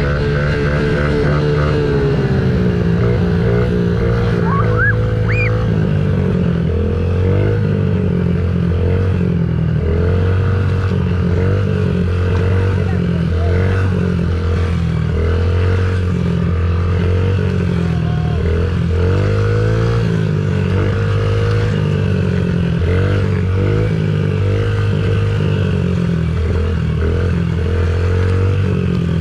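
Dirt bike engine running, its pitch rising and falling again and again as the throttle is opened and closed. A brief rising whistle-like tone comes about five seconds in.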